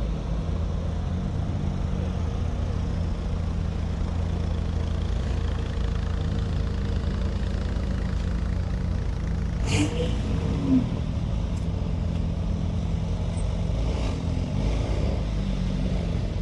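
Car engine running at low speed, a steady low rumble, with a brief sharp click just under ten seconds in.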